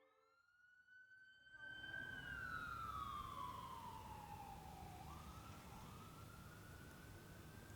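Faint emergency-vehicle siren wailing: the pitch rises, falls slowly for a few seconds, then swings back up and climbs again, over a low steady background hiss that comes in about a second and a half in.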